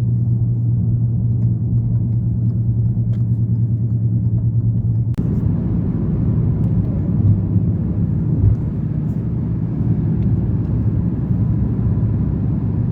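Car travelling on the road, a steady low engine hum and road rumble. About five seconds in the sound changes abruptly to a broader rumble with more tyre hiss.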